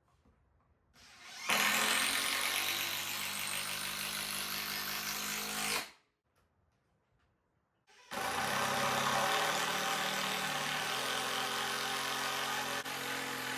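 Power drill driving long screws into timber, in two runs of several seconds each with a short pause between; the first run opens with the motor's whine rising as it spins up.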